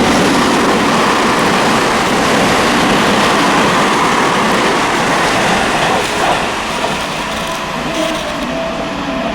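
Seibu Railway electric commuter train passing through a station at speed without stopping: loud, steady wheel and rail noise that eases slightly after about six seconds, with a faint steady tone in the second half.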